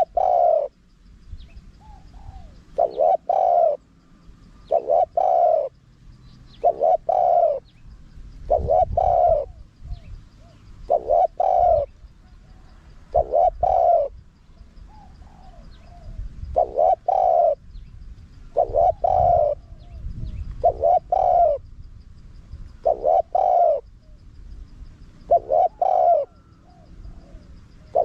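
Spotted dove cooing: a male's repeated phrases of deep coos, each phrase of a few notes, about every two seconds. This is a wild-type song recording used as a decoy call to draw wild doves in.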